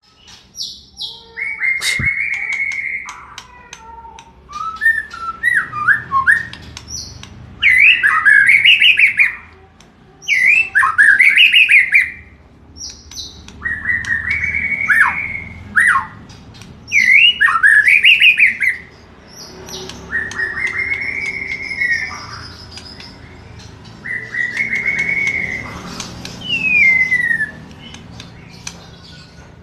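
A wild forest bird singing a loud, repeated song phrase of quick warbled notes that rise and fall, about one phrase every three seconds, with thin high notes in the gaps between phrases.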